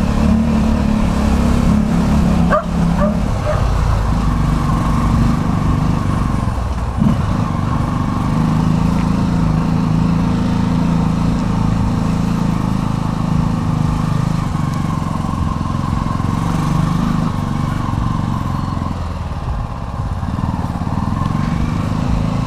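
Motorcycle engine running steadily while riding in city traffic, its low note holding fairly even with small shifts in pitch.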